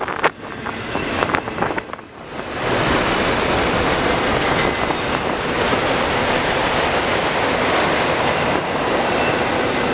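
Freight train cars rolling past at close range, steel wheels on rail: a few sharp wheel clicks at first, then a loud, steady rolling rumble from about two and a half seconds in as autorack cars go by.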